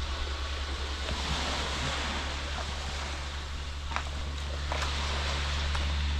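Sea waves washing against the shore, an even hiss with a few faint clicks and a steady low rumble underneath.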